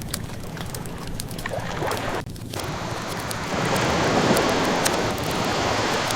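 Ocean waves washing steadily, with a wave surging louder about halfway through, under the scattered sharp pops and crackles of a wood fire.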